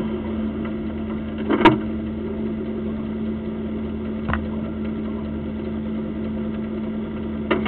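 A car engine idling steadily, one unchanging hum. A sharp knock comes about a second and a half in, and a fainter one around four seconds in.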